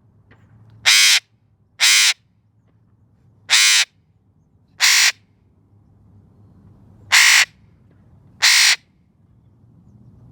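Eclectus parrot giving six loud, harsh, crow-like squawks, each about a third of a second long, a second or more apart.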